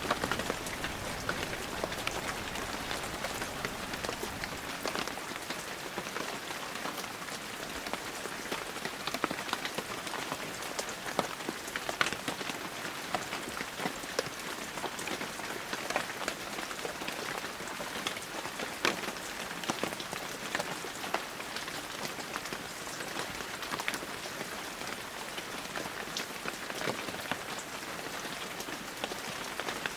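Heavy rain falling steadily, a dense hiss dotted with many sharp individual drop impacts.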